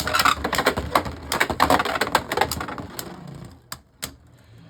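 Two Beyblade Burst tops, Harmony Pegasus and Master Devilos, spinning and clashing in a plastic stadium: a rapid rattle of hard plastic hits. After about three seconds the hits thin out to a few single clicks.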